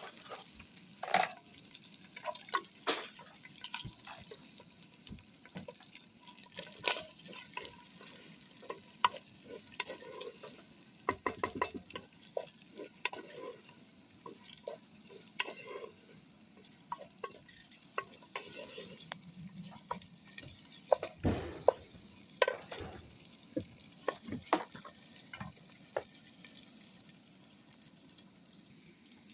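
Food frying in a pan with a steady sizzle, while a utensil stirs and knocks against the pan in irregular clicks and scrapes.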